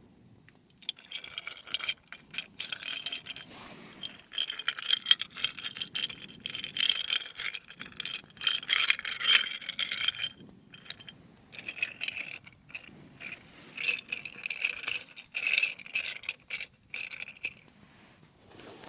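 Quick metallic rattling and clinking with a ringing edge, like metal objects knocking together, in bursts with short pauses about ten seconds in, again a couple of seconds later, and near the end.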